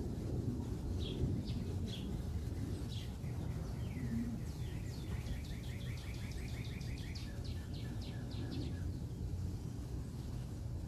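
Small songbird calling: a few short down-slurred notes, then a rapid trill of repeated down-slurred notes lasting about four seconds. Under it runs a steady low background rumble.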